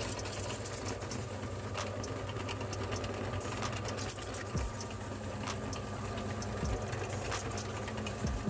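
Electric meat grinder's motor running steadily with a hum, with scattered sharp crackles and clicks as crunchy chips are crushed in it.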